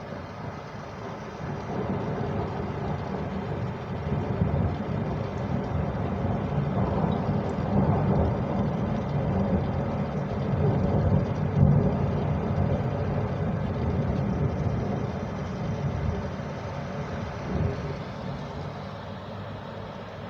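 A long roll of thunder that builds over several seconds, rumbles loudest around the middle, then slowly dies away.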